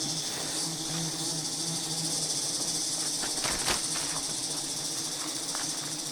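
A swarm of giant honey bees buzzing steadily, a low even hum over a high steady insect hiss, with one sharp tick a little past halfway.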